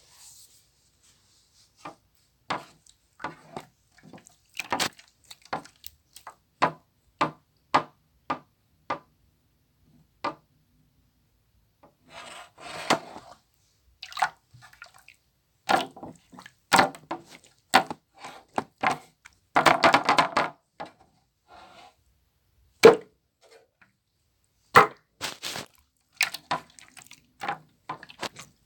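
Slime being squeezed and poked by hand, making irregular sharp clicking pops with a few longer squishy bursts.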